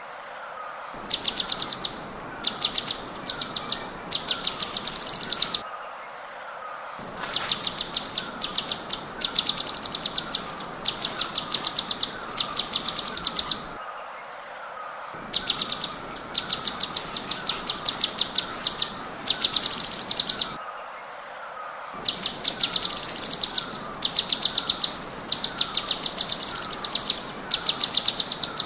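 Recorded songbird song: a bird repeating short bursts of very fast, rattling high trills, with a steady run of lower falling notes beneath. The track cuts briefly several times, as if spliced or looped.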